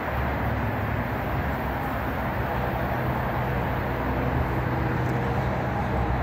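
Steady rumble and low hum of a Metro-North M8 electric multiple-unit train running away down the line.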